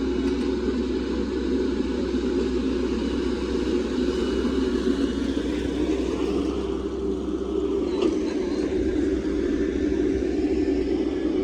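Hydraulic excavator's diesel engine running steadily, a continuous low drone.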